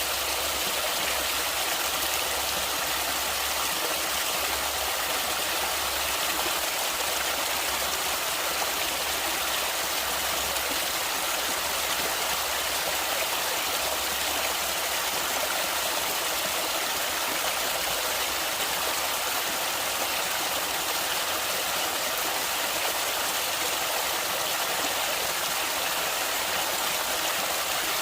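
Stream water flowing steadily, an even unbroken wash of sound.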